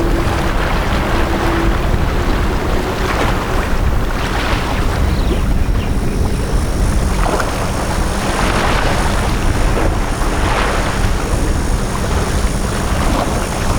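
Small sea waves washing onto a beach in repeated swells every couple of seconds, over a steady low rumble. A steady hum sounds briefly in the first two seconds.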